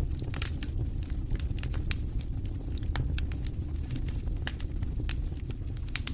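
Wood campfire crackling, with many sharp, irregular pops and snaps over a steady low rumble.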